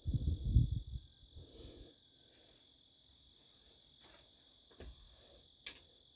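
Crickets chirping steadily in the background. A low rumble in the first second is the loudest sound, and there are a few light clicks near the end.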